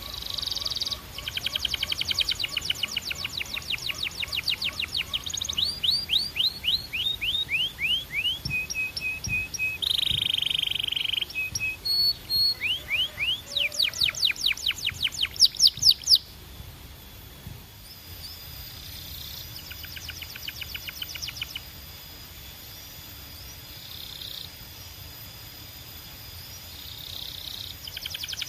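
Canary singing: fast trills of repeated chirps, runs of quick down-slurred notes and rolling phrases, loud for about the first sixteen seconds, then stopping sharply and going on as softer, sparser trills.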